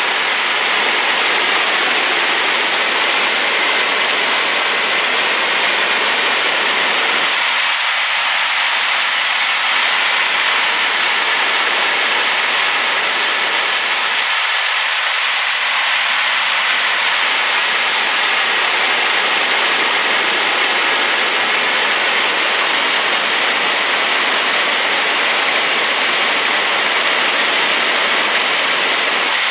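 Rain-swollen waterfall in spate, its heavy flow of water pouring with a loud, steady rush.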